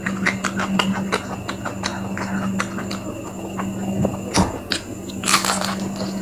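Close-miked chewing of crispy fried food: a quick string of wet mouth clicks and small crunches, with a louder crunchy bite near the end. A steady low hum runs underneath.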